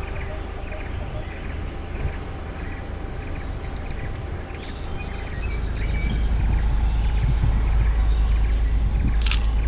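Outdoor ambience of insects and birds calling over a low rumble that grows louder about halfway through.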